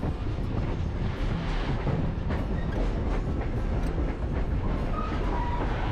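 Passenger train running along the track: a steady rumble with clickety-clack from the wheels over the rails. A couple of short high-pitched tones come near the end.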